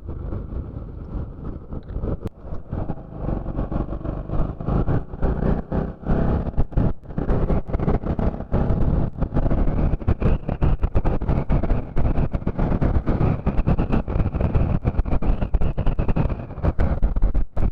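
Motorcycle being ridden along a road: engine and road noise, with gusty wind rumbling on the microphone.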